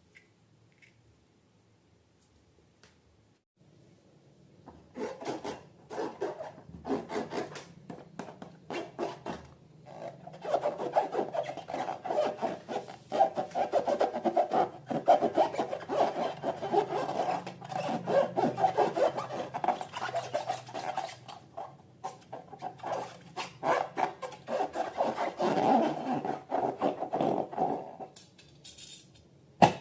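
Slime being mixed by hand: quick, repeated rubbing and scraping strokes. They start a few seconds in, run on without a break and stop shortly before the end.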